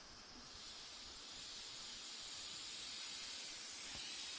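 Pressurised air and fuel vapour hissing out of a portable outboard fuel tank as it is vented. The high hiss starts about half a second in and grows steadily louder. The tank's breather vent had been closed, so pressure had built up inside it.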